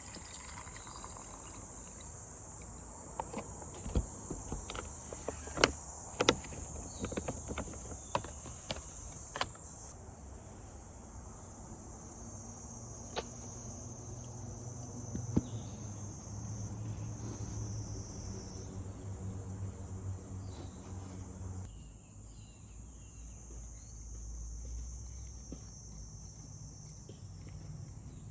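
A steady chorus of insects, with a scattered run of sharp clicks and taps in the first ten seconds.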